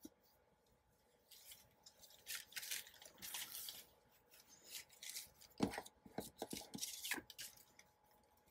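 Paper and a paper napkin rustling in faint, scattered bursts as they are handled and laid on a journal page, with a few light clicks or taps a little past halfway.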